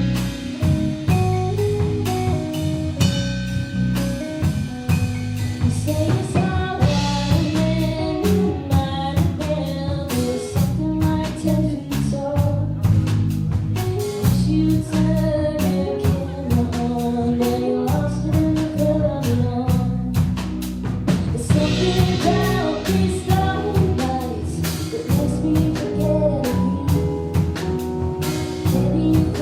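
Live band playing a song: a singer over a drum kit, with bass and other instruments, at a steady beat.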